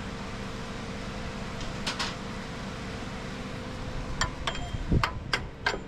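Chipping hammer striking a fresh stick weld to knock off the slag: one sharp metallic tap about two seconds in, then taps coming more often from about four seconds, some ringing briefly, over a steady hum.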